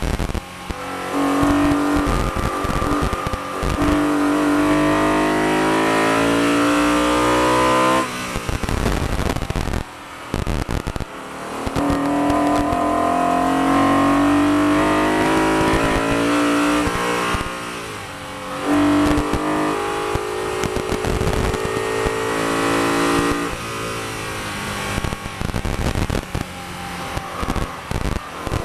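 BMW E92 M3's V8 engine heard from inside the cabin at racing pace: it pulls up through the revs in long rising runs, its pitch stepping at quick dual-clutch gearshifts. Three times it drops away as the car backs off and brakes for a corner.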